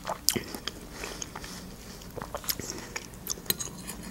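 A person chewing a mouthful of food with the mouth closed: soft, wet mouth clicks and smacks at irregular intervals.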